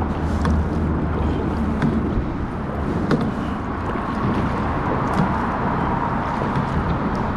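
Ascend H10 hybrid kayak being paddled across the water, with a steady rumble of wind on the microphone and a few light knocks.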